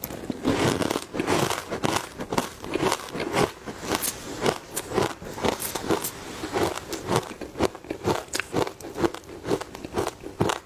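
Close-miked crunching of hard ice being bitten and chewed, with rapid, irregular crunches, about three or four a second.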